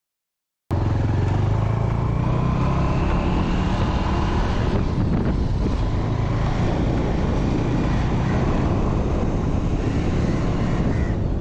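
Motorcycle engine running steadily on the move, with wind and road noise on the action-camera mic, cutting in suddenly under a second in.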